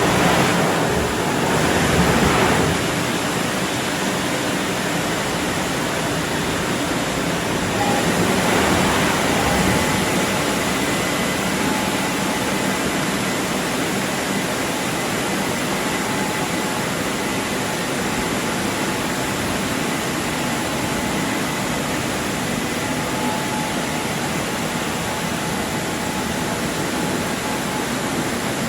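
WashTec SoftCare Pro Classic rollover car wash starting up suddenly and running with a steady, loud rushing noise, with a faint motor whine over it.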